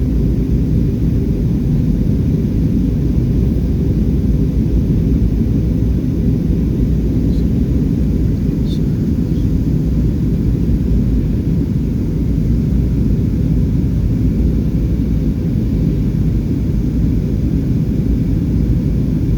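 Steady low rumble of a passenger aeroplane in flight, heard from inside the cabin: engine and airflow noise holding constant.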